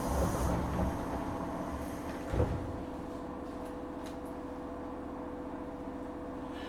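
Sliding doors of a stopped 103 series electric train car closing, with low thumps in the first second and a sharp thud about two and a half seconds in. After that comes the steady hum of the standing train's equipment.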